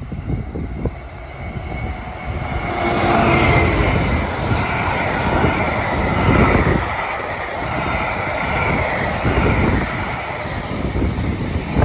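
A train running past, a steady rumble with faint drawn-out tones that build from about three seconds in, with wind buffeting the microphone.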